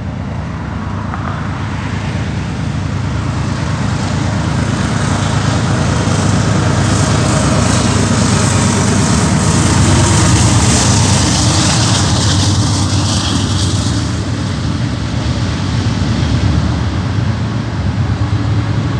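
Two GE AC4400CW diesel-electric locomotives passing close by with their engines running. The rumble builds and is loudest about halfway through as the locomotives go past. It then carries on as the steady rumble of freight cars rolling on the rails.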